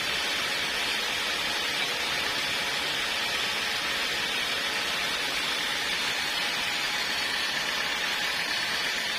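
Portable sawmill running with a steady hiss and no break or change.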